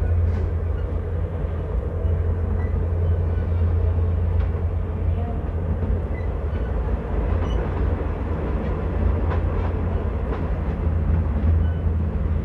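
Commuter train running, heard from inside a passenger coach: a steady low rumble with a constant hum over it.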